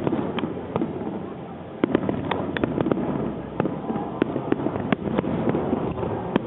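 Aerial fireworks shells bursting in a rapid, uneven run of bangs, about fifteen in a few seconds, over a continuous rumble of the display's finale barrage.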